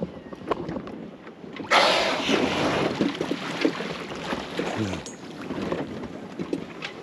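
Wind buffeting the microphone and water rushing along a sailboat's hull at sea, with scattered knocks; the noise jumps suddenly louder about two seconds in.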